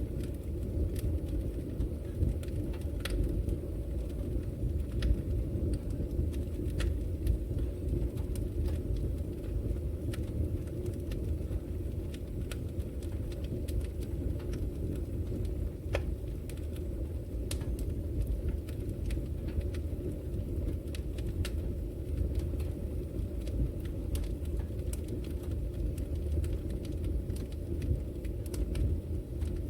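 Wood logs burning in a fireplace: a steady low rumble of flames with scattered sharp crackles and pops, roughly one every second or so.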